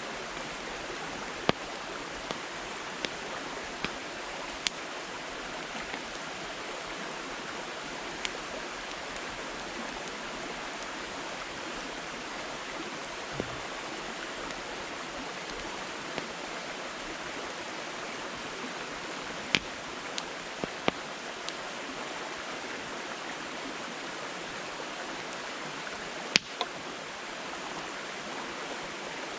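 Campfire of split firewood burning: a steady hiss with sharp crackling pops at irregular intervals, a few of them louder, including a quick cluster of pops about two-thirds of the way through.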